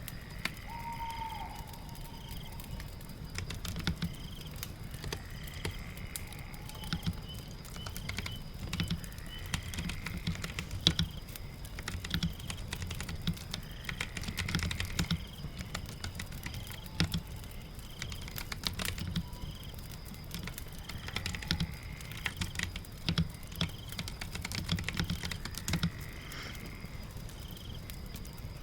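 Irregular keystrokes of computer keyboard typing, in quick runs with short pauses, over a steady background of rain patter and a low rumble.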